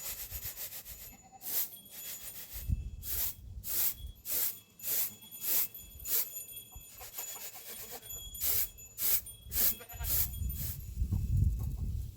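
Goats with neck bells: a run of short clinks with faint ringing bell tones, and goat bleats. A low rumble comes in about ten seconds in.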